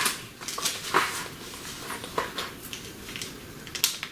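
Crinkling and rustling of small plastic toy packets being handled and opened, a string of irregular short crackles.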